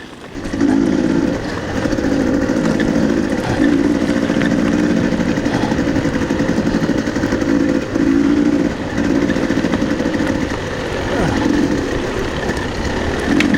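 A motor running loudly in spurts, cutting in and out every one to three seconds.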